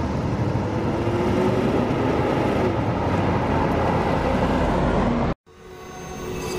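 1977 Corvette C3's 350 V8 running as the car drives past, its pitch drifting a little. It cuts off suddenly about five seconds in, and a rising music swell takes over.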